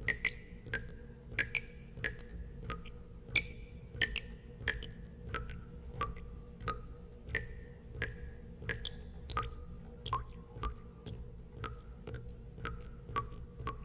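Water drops falling into water, about two a second at an uneven pace: each a sharp click with a short ringing plink, the pitch varying from drop to drop. A low steady hum runs underneath.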